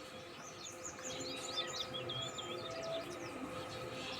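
Small birds chirping and twittering in quick high notes, busiest in the first half, over a faint steady hum.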